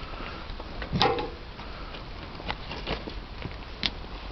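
Wood campfire crackling, with scattered sharp pops and ticks; the loudest pop comes about a second in.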